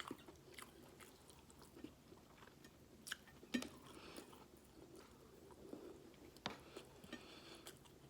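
A person chewing food quietly with the mouth close to the microphone, with a few short sharp clicks, the loudest a little over three and a half seconds in.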